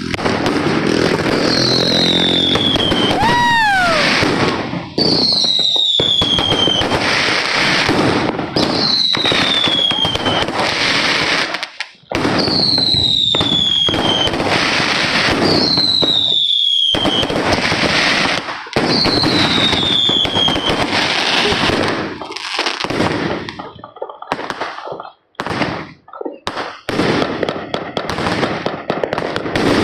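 Neighbourhood fireworks crackling and popping densely, with a whistling firework's falling whistle six times, about every three and a half seconds. In the last several seconds the barrage thins to scattered pops and bangs.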